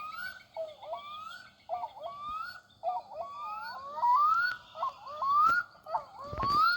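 Recorded diving-duck call played from a children's sound book's small speaker: a rapid string of short calls, each gliding upward, about two or three a second. There is a handling knock near the end.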